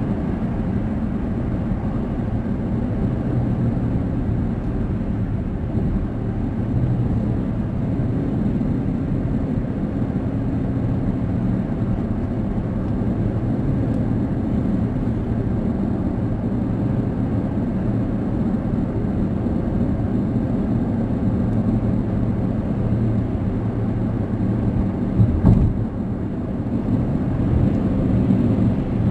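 Road noise inside a moving car's cabin: a steady low rumble of tyres and engine at highway speed, with one brief thump about 25 seconds in.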